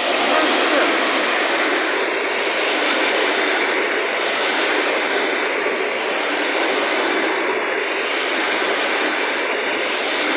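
Passenger train hauled by an EP1 electric locomotive rushing past at speed, its wheels and cars making a loud, steady roar.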